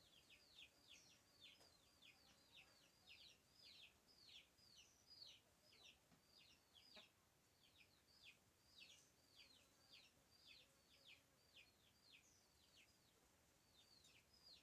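Faint bird calls: a rapid, steady series of high chirps, each sweeping downward in pitch, about two to three a second.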